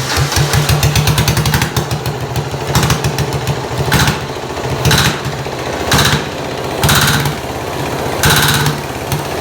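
A junior dragster's diesel engine running with a fast, even knock. A harsh, louder burst comes roughly once a second.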